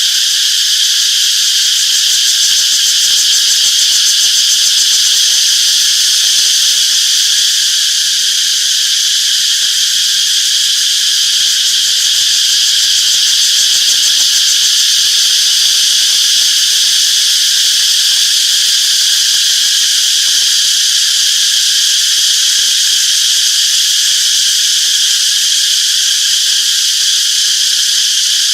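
Cicadas buzzing in a continuous loud, high-pitched drone that holds steady throughout.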